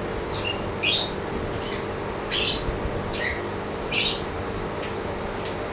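Small birds chirping, short high calls about one a second, over a steady low hum.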